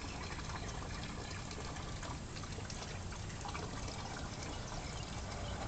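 Water running steadily from an outdoor garden faucet.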